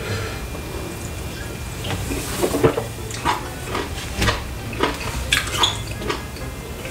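Close-up wet chewing and lip-smacking of a man eating a mouthful of fufu with eru (afang) soup: a run of short, moist smacks and clicks starting about two seconds in.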